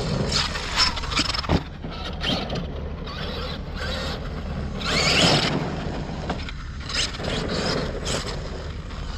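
Irregular clicks and scrapes of a large RC car's drivetrain parts being worked by hand, as a bent drive shaft is bent back, with a louder scraping patch about five seconds in.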